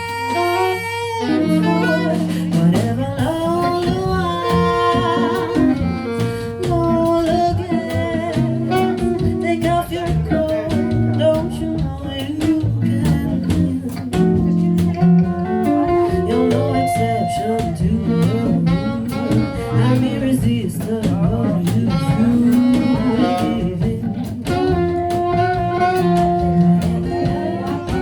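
Jazz quintet playing: saxophone, guitar, double bass and drum kit, with a singer's voice.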